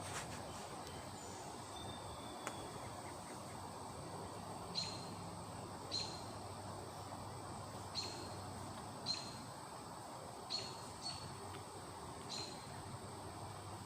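A bird chirping: about seven short, high chirps, starting about five seconds in and coming every one to two seconds, over a steady background hiss.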